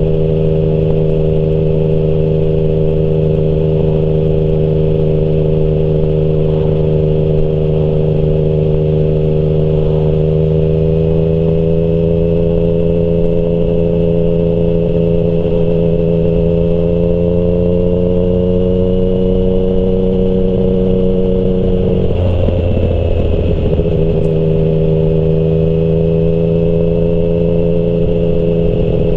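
Yamaha MT-09's inline-three engine running through a Termignoni exhaust at fairly steady revs, its note climbing slowly, then breaking up for about two seconds roughly three-quarters of the way in before settling into a steady note again.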